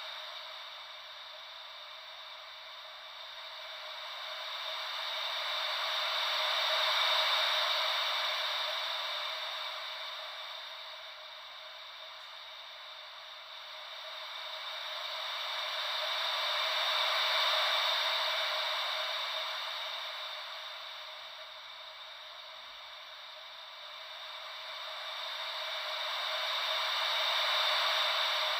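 Gentle ocean-wave white noise: a soft hiss that swells and fades evenly, about once every ten seconds, cresting three times.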